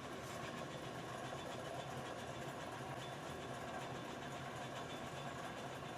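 Metal lathe running steadily, a low, even mechanical hum.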